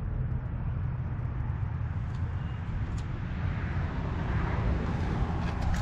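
Outdoor background noise of vehicle traffic: a steady low rumble with a hiss that swells about four to five seconds in, as a vehicle passes.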